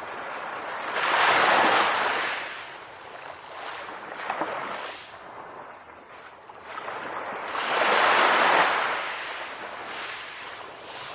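Ocean waves breaking and washing up on a beach, the surf swelling and ebbing, with two larger waves crashing about a second in and near the eight-second mark and smaller washes between.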